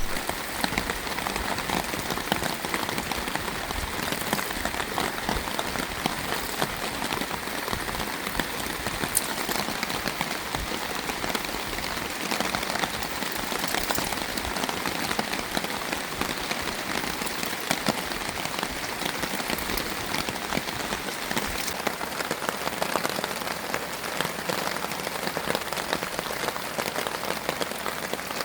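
Steady rain falling, a dense, even patter of countless small drops striking close by.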